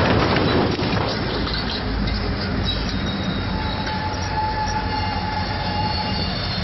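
Ferromex freight train's diesel locomotives running through a level crossing just after striking a semi-trailer: a steady, dense rumble, with a high squealing whine setting in about three seconds in.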